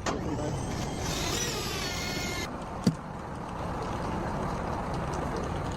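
An engine of working machinery running steadily, with a high wavering whine for about a second and a half near the start and a single sharp knock about three seconds in.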